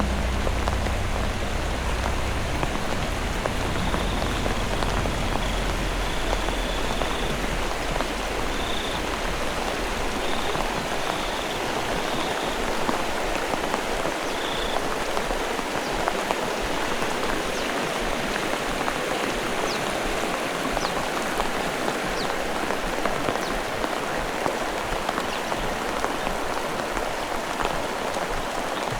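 Heavy rain falling steadily, a dense pattering hiss. A low rumble fades out in the first few seconds, and a few faint high chirps come and go in the first half.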